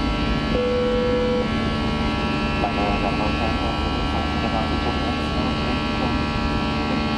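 Airliner cabin noise inside an Airbus A319 in flight: a steady hum of engines and airflow carrying several fixed tones. A brief single beep sounds about half a second in.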